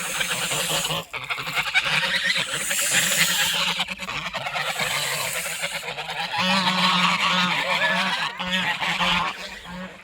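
A flock of geese honking and calling over one another without a break, clamouring as they are fed.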